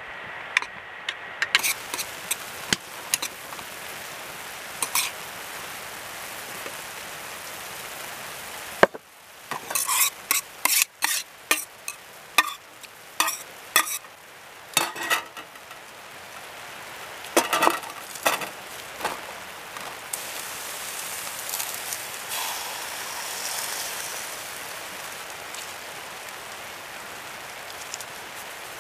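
Sliced beef sizzling in a frying pan over a charcoal brazier, with metal chopsticks clicking and scraping against the pan as it is stirred. Through the middle comes a run of sharp knocks and scrapes as the cooked beef is pushed out of the pan into a bowl, then a steady sizzle as sliced onions fry.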